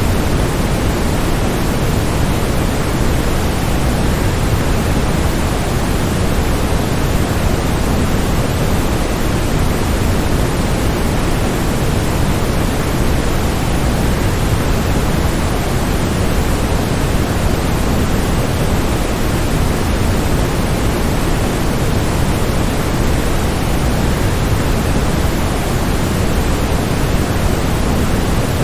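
Waterfall: a steady, even rush of falling water that does not change, strongest in the low end.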